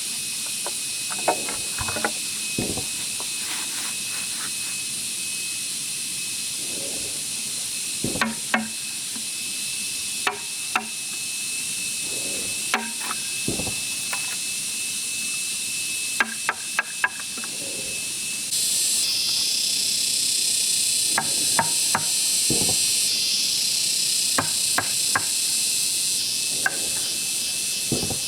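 Irregular knocks, taps and clicks of bamboo being handled and worked, some with a dull thud, over a steady high-pitched hiss that grows denser about two-thirds of the way in.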